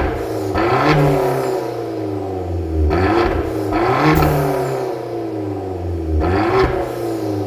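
Hyundai Genesis Coupe exhaust with a variable-valve muffler and straight-through resonator, the engine revved in pairs of quick blips about every three seconds and dropping back to idle between them.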